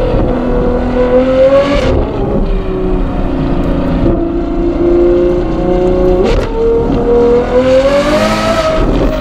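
Ferrari 812 GTS's naturally aspirated 6.5-litre V12 running through a Novitec sport exhaust, its note rising and easing off as the car is driven. Two quick breaks with jumps in pitch, about two and six seconds in, sound like gear changes.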